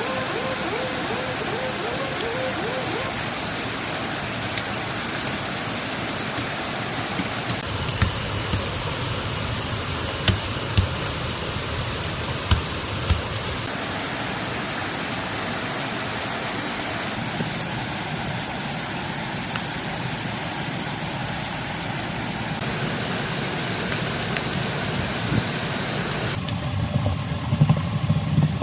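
Steady rushing noise of water, rain or running water, with a few short sharp knocks in the middle; the noise changes abruptly several times.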